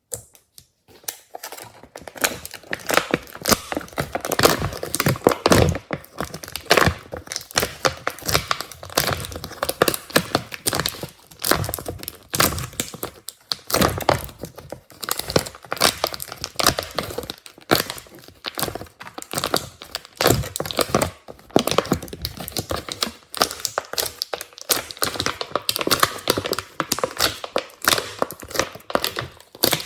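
Glossy slime being kneaded and pressed by hand, making a dense, irregular run of crackles and pops that starts about a second in.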